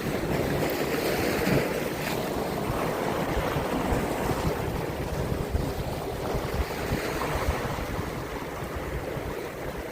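Steady wash of sea waves on a rocky shore, with wind buffeting the microphone.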